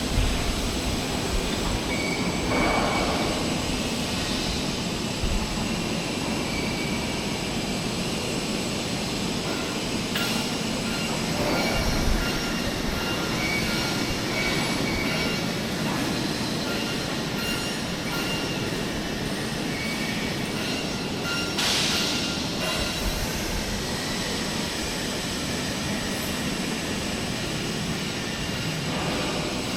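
Tandem press brake running: steady mechanical noise with a faint high whine, and a few brief louder swells.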